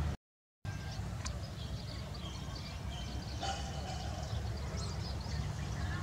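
Outdoor ambience of faint bird chirps scattered through a steady low rumble, with a brief dropout to silence just after the start.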